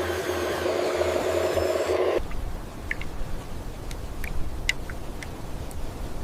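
Small electric motor of a toy RC construction machine whirring steadily, cutting off abruptly about two seconds in; then a low rumble with a few light clicks.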